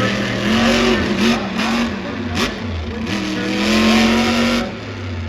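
Monster truck engines revving hard, their pitch rising and falling with the throttle, with one sharp crack about two and a half seconds in. The engine sound drops away shortly before the end.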